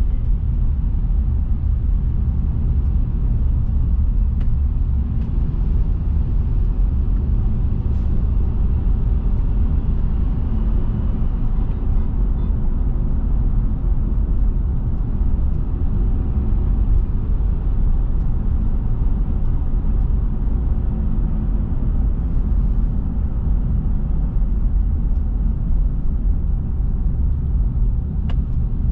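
Steady low rumble of a car driving, with road and engine noise and a few faint ticks.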